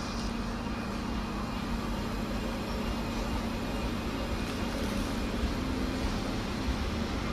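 A bus or train engine running steadily with a constant low hum and rumble.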